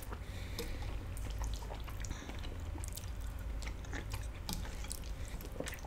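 Two people chewing mouthfuls of tortellini casserole, with scattered faint clicks over a low steady hum.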